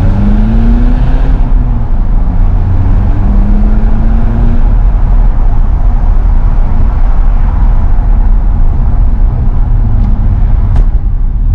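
BMW E46 320d's straight-piped, remapped four-cylinder turbodiesel running loud with a heavy low rumble, its pitch climbing in the first second or so and again a few seconds in as it pulls.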